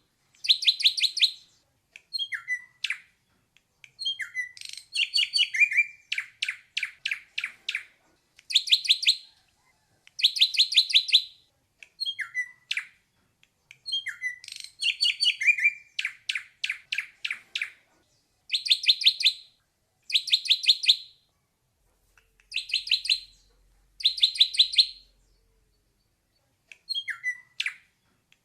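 Ashy drongo (srigunting klawu) singing: short phrases, each a fast rattle of sharp notes, mixed with falling slurred whistles, repeated every second or two with brief silences between.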